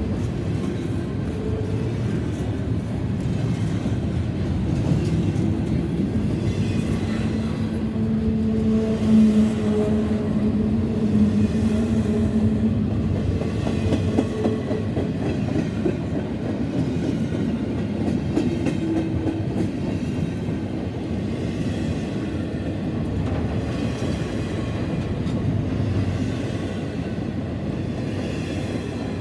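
CSX intermodal freight train of double-stack container cars and autorack cars rolling past at close range: a steady rumble of steel wheels on the rails. A humming tone rises over it for several seconds in the middle.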